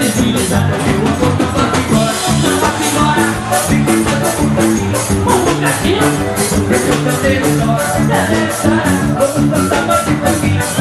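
Forró band playing live, loud and dense, with a steady quick beat.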